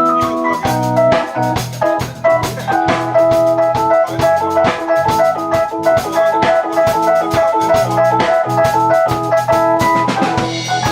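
Live rock band playing an instrumental passage: a keyboard melody in organ and piano tones over a steady drum-kit beat and bass.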